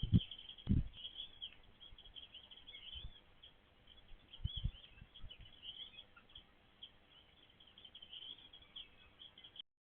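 A group of small birds chirping, with many short calls overlapping one another, broken by a few low thumps. The sound cuts out suddenly near the end.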